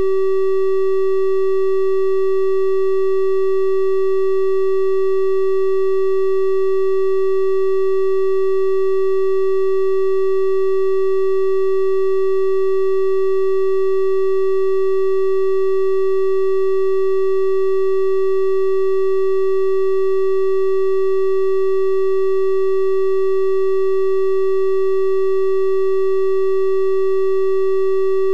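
Synthesized 384 Hz triangle-wave tone held steady and unbroken, a pure hum with faint higher overtones.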